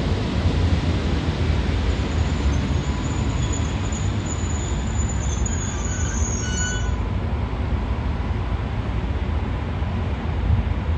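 ET22 electric freight locomotive moving slowly through the station tracks, its wheels squealing high-pitched from about two to seven seconds in, over a steady low rumble.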